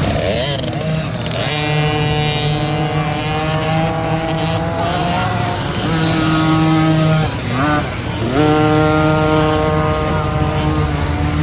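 Youth dirt bike engines running at high revs, holding a steady pitch. About seven seconds in the revs dip as the throttle comes off, then rise and hold again.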